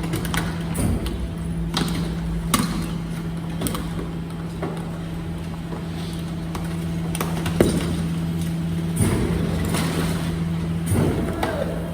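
Garbage truck at work: a steady hum from its running motor and hydraulics, with scattered knocks and clanks, the sharpest about two-thirds of the way in.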